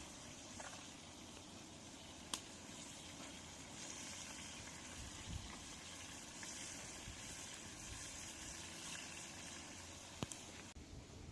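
Faint, steady bubbling hiss of food cooking over heat, with a couple of sharp clicks; the hiss drops away suddenly near the end.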